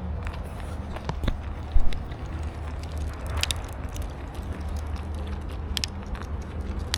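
Steady low rumble of road traffic nearby, with footsteps crackling on the trail as short scattered clicks and one dull bump about two seconds in.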